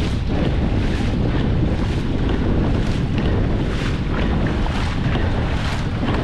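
Wind buffeting the microphone over water rushing and splashing around a moving dragon boat as it is paddled.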